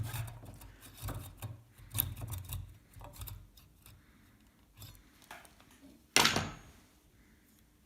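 Small wooden parts being handled on a workbench: a run of light knocks and clicks for the first few seconds, then one louder half-second rasp about six seconds in.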